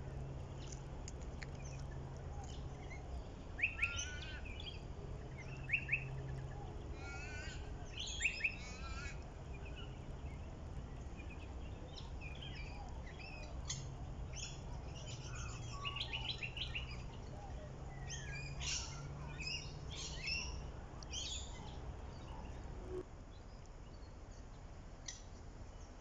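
Several birds chirping and calling in quick, varied notes, the loudest short double calls coming about four, six and eight seconds in, over a low background hum.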